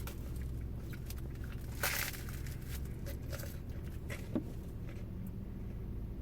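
A person chewing a mouthful of banh mi with tough, gristly beef: small wet mouth clicks and a short louder noise about two seconds in, over a steady low hum.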